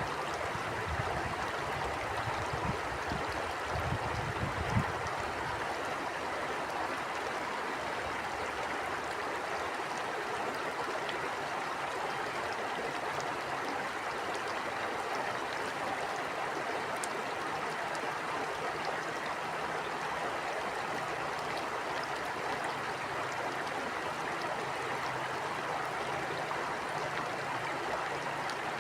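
Stream water flowing steadily, an even rushing sound. In the first few seconds, low gusts of wind rumble on the microphone.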